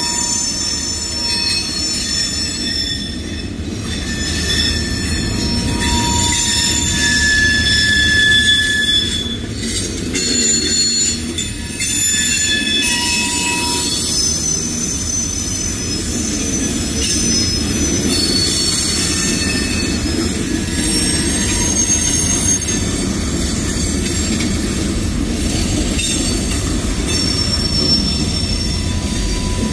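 Freight cars of a CSX manifest train rolling past: a steady low rumble with scattered high-pitched wheel squeals that come and go at different pitches.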